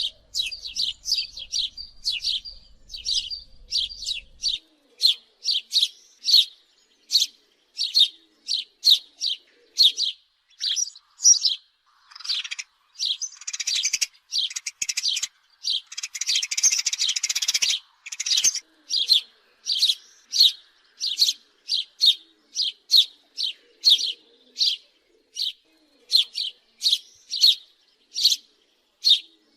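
House sparrow chirping: short, repeated cheeps, one or two a second, broken by several seconds of fast, dense chattering about halfway through.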